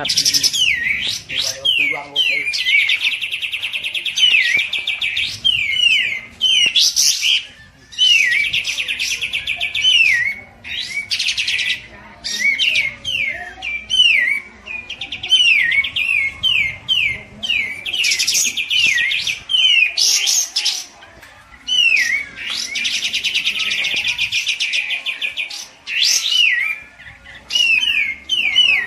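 Kapas tembak and cucak jenggot songbirds singing loudly. Buzzy rapid trills lasting a few seconds alternate with runs of short, falling whistled notes, over and over.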